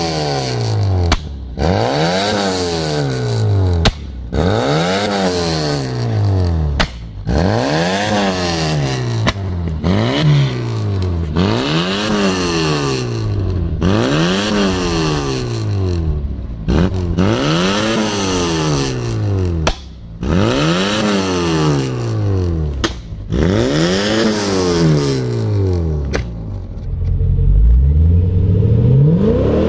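A Vauxhall Viva 1.3's four-cylinder engine revved over and over, about one rise and fall of pitch every two seconds, with sharp backfire bangs from the exhaust between some of the revs. Near the end a Holden VE SSV's V8 rises in revs.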